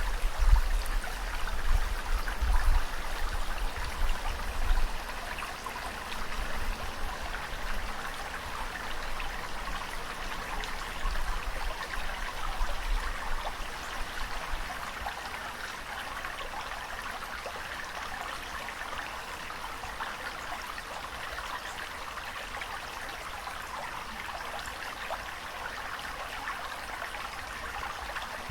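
Steady rush of moving water, with deep rumbles in the first few seconds and again about twelve seconds in.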